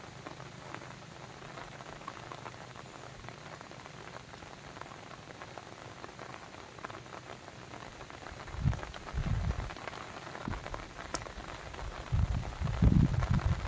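Steady patter and trickle of water, with many small drop sounds. Two bursts of low rumbling, about two-thirds of the way in and near the end, are the loudest sounds.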